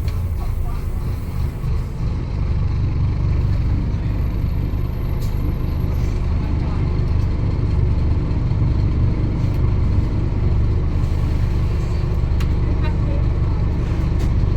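A road vehicle running with a steady low rumble.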